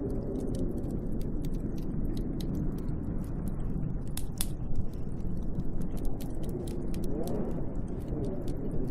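Snowstorm wind blowing steadily with a deep rumble, its pitch wavering up and down in a faint howl, most plainly about seven seconds in. Sharp little clicks and crackles are scattered through it.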